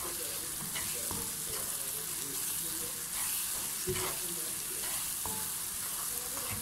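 Onion, tomato and spice masala sizzling in hot oil in a karahi while a wooden spatula stirs and scrapes it around the pan, the masala being fried down (bhuna). A few scraping knocks of the spatula against the pan sound over the steady sizzle, the sharpest about four seconds in.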